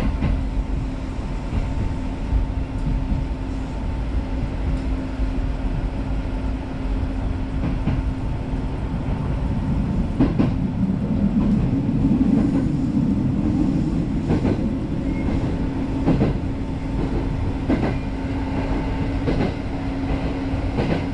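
Izu Kyuko 'Aloha' electric train (a 2100-series Resort 21 unit) running along the line, heard from inside a carriage. The wheels on the rails make a steady rumble under a steady motor hum, with a few sharp clicks over rail joints in the second half.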